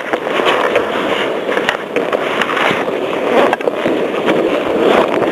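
Skis or a board scraping and chattering over hard-packed snow while sliding downhill, a continuous rough hiss with scattered crackles, with wind buffeting the microphone.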